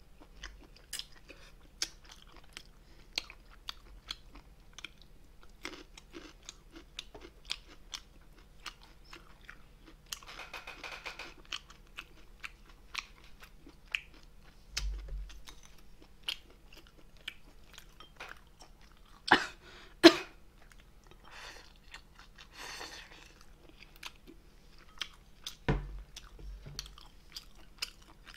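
Close-up chewing and crunching of spicy braised monkfish with bean sprouts, with many small wet mouth clicks. Two louder sharp clicks come about two-thirds of the way through.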